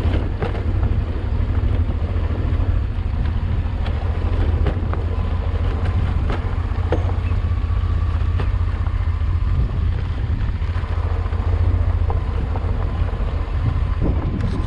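Honda Transalp XL600V's V-twin engine running steadily under way, with wind rushing over the microphone and scattered short clicks.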